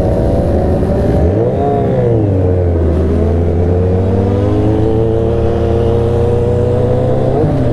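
Motorcycle engine running under way, its note shifting about a second in, then climbing slowly and steadily, with a brief change in pitch near the end.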